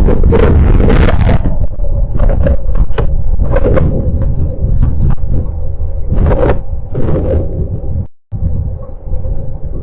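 Heavy rainstorm wind and rain battering a CCTV camera's microphone: a loud, distorted rumble with repeated gusting surges, and a faint steady hum underneath. The sound cuts out briefly about eight seconds in.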